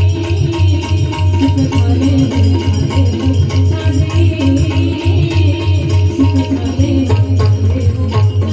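Instrumental interlude of a Marathi abhang: pakhavaj drumming a steady rhythm with a deep bass stroke, under held melodic notes from the accompaniment.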